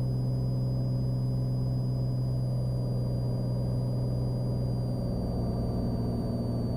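Cessna Skylane's single piston engine and propeller droning steadily in flight, a low, even drone with no change in pitch.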